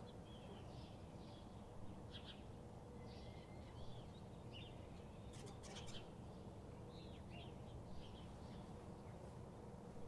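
Several birds chirping and calling in short, scattered notes, faint over a steady low background rumble.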